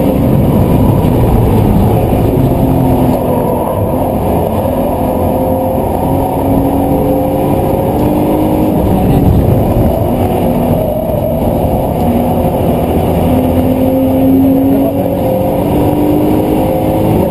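BMW Z4's engine heard from inside the cabin at track speed, loud and muffled, rising and falling in pitch several times as it accelerates and eases off, over steady road and wind noise.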